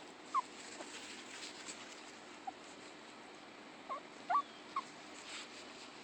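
Yorkshire terrier whimpering: about six short, high whines, scattered and uneven, some sliding in pitch.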